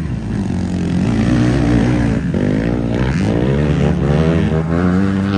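Motocross bikes running on the track, with several engines overlapping and their pitch rising and falling as the riders work the throttle.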